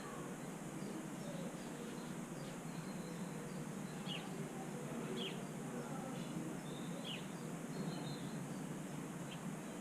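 Faint, short high chirps of small birds, a few seconds apart, over a steady low background hum.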